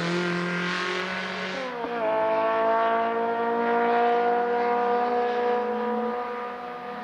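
Škoda 130 RS four-cylinder race-car engine running at high revs while the car weaves through a cone slalom. The pitch drops sharply a little under two seconds in, then holds high and fades near the end.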